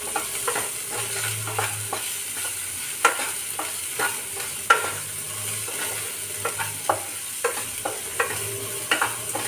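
Onions and green peas frying in ghee in a non-stick kadai, sizzling steadily while a spatula stirs them, with irregular scrapes and taps of the spatula against the pan.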